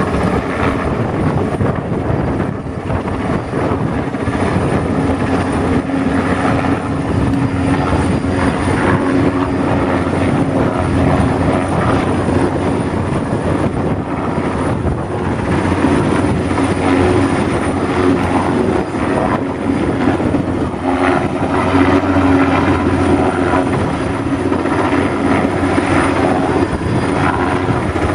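Commercial air-conditioning unit running steadily, a loud whir of fans and motor with a constant low hum.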